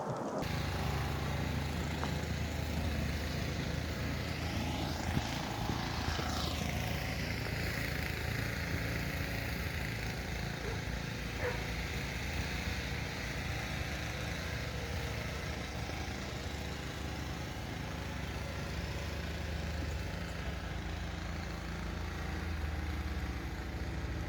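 A motor engine running steadily with a low hum. About five seconds in, a passing sound slides down in pitch.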